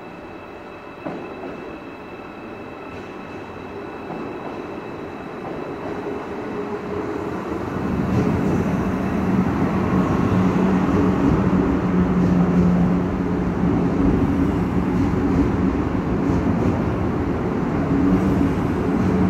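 Deutsche Bahn ICE train running in close past the platform: its rumble builds over the first eight seconds, then holds as a loud steady rumble with a low drone. A single sharp knock about a second in.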